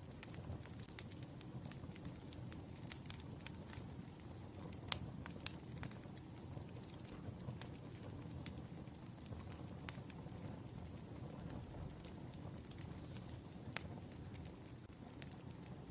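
Wood fire crackling: irregular sharp pops and snaps over a low, steady rush of burning logs, with one louder pop about five seconds in.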